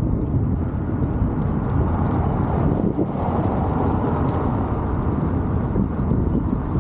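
Wind rumbling on the microphone of a moving bicycle, with light rattling clicks throughout.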